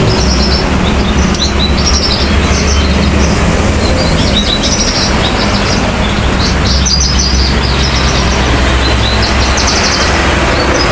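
Branjangan (Horsfield's bushlark) in full song: quick clusters of short high chirps and trills, repeated with brief gaps, over a loud steady low hum.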